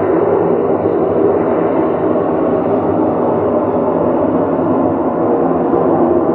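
A loud, steady drone with several faint held tones and no breaks, of the kind circulated as a mysterious sound from the sky.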